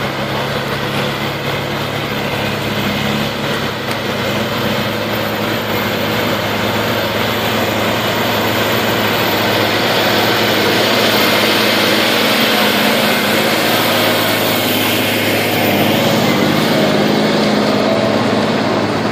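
John Deere 2020 tractor engine running steadily, growing somewhat louder about halfway through.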